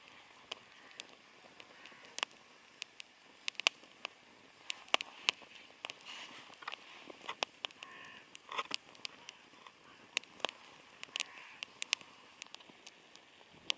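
Wood campfire crackling, with many irregular sharp pops and snaps over a faint hiss.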